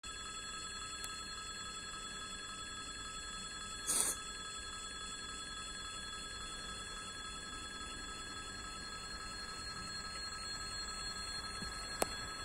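Faint, steady high-pitched ringing made of several fixed tones, typical of the rails singing ahead of an approaching train. There is a short hiss about four seconds in and a sharp click near the end.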